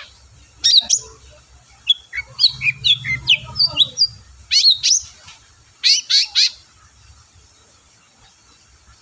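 Long-tailed shrike (cendet) calling: sharp downward-sweeping notes, a quick run of varied chirps, then two short groups of rapid repeated notes. It falls quiet after about seven seconds.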